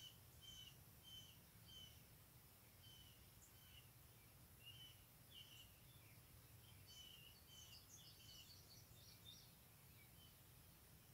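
Near silence with faint bird chirps: a string of short, high chirps at about two a second, then a quicker cluster of calls around seven to nine seconds in.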